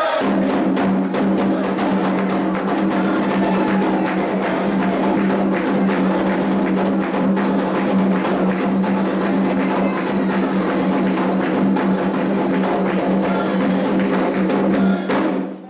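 Candomblé atabaque drumming for the orixá Iansã: fast, dense hand-drum strokes with a steady low tone underneath. It stops abruptly just before the end.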